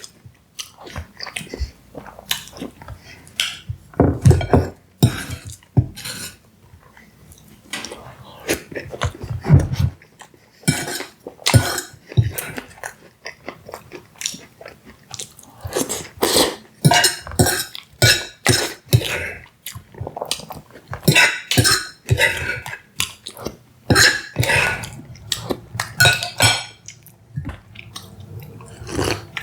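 Close-miked eating: cutlery clinking and scraping against dishes in irregular clicks, with chewing of pie and ice cream between them.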